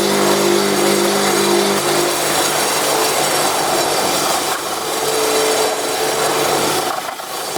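Electric power tool running under load: a steady motor hum under a loud, rough grinding noise, easing briefly near the end.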